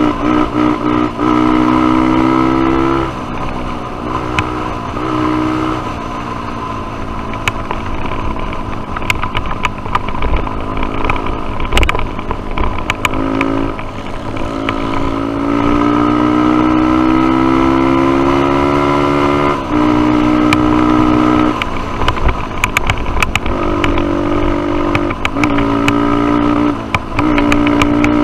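Single-cylinder dirt bike engine riding a trail: the throttle pulls the pitch up in long climbs, holds it for stretches, and drops off several times at shifts and throttle lifts. Scattered sharp clicks and knocks come through the run, the sharpest about twelve seconds in.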